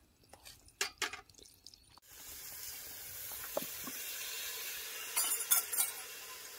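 A few light clicks and knocks, then from about two seconds in a steady sizzle of food frying in a pan, with a quick run of metal clinks from a utensil stirring against the pan near the end.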